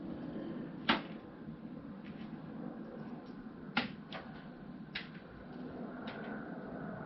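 A few sharp knocks and clicks, about five over several seconds, the first the loudest, over a steady low hum, typical of parts being handled while assembling a tool cabinet.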